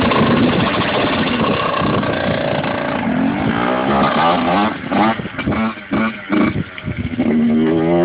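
Yamaha YZ85 two-stroke single-cylinder dirt bike engine revving, rising in pitch and then given a series of short, sharp throttle blips.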